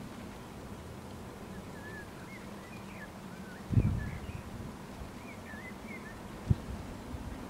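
Faint, warbling chirps of a small bird somewhere off in the background, over a steady low hum. Two low thumps stand out, about four seconds in and again near the end.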